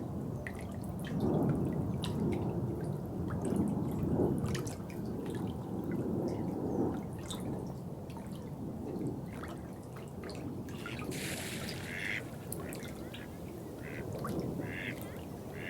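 Water trickling and dripping, with many small drip clicks over a low, uneven burble, and a brief hiss about eleven seconds in.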